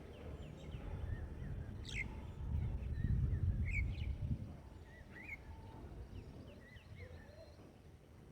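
Small birds calling: scattered short chirps and quick up-and-down notes, several to a second. Under them runs a low rumble, loudest in the first half and easing off after about four seconds.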